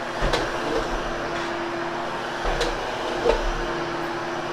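Vacuum cleaner running steadily over a polyester area rug, grooming the pile after cleaning: a constant hum with a few faint clicks as it is pushed along.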